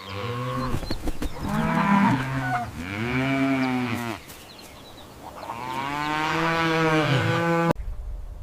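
Cow mooing: three long, drawn-out moos, the last cut off abruptly near the end.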